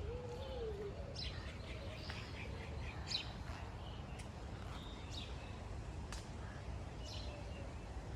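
Birds chirping in short scattered calls over a steady low rumble of wind on the microphone.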